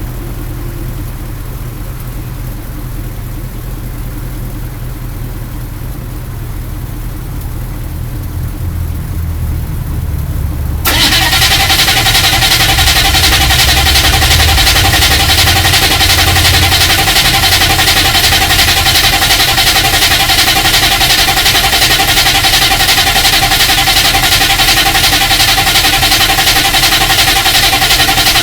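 Cold start of a 1986 Chevrolet K30 M1008's 6.2-litre Detroit diesel V8. At first there is a low engine rumble, slowly building. About eleven seconds in it suddenly gets much louder and stays loud and steady, over a second V8 idling underneath.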